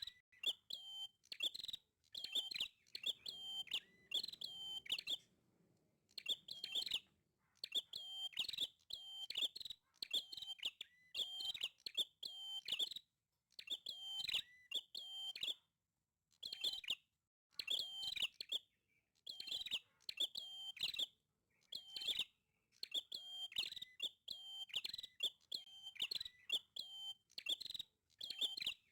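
A prinia (prenjak) singing vigorously, with bursts of rapid high chirps about a second long repeated over and over with short pauses between them.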